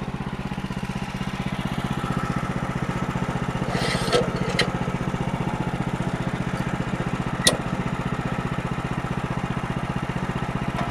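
Sawmill's small engine running steadily at an even speed. A few sharp knocks sound about four seconds in and again past seven seconds.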